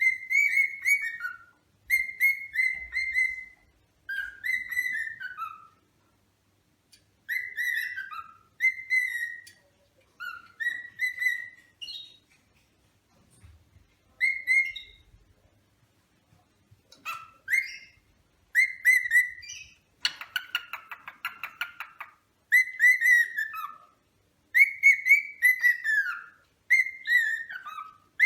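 Albino cockatiel whistling: short phrases of clear notes that dip and fall in pitch, repeated every second or two with brief pauses. About two-thirds of the way through there is a harsher, rasping chatter.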